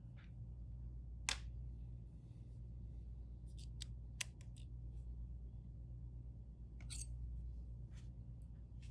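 Scattered small sharp clicks and snaps of hand tools and parts being handled during a phone screen repair, the loudest about a second in, over a low steady hum.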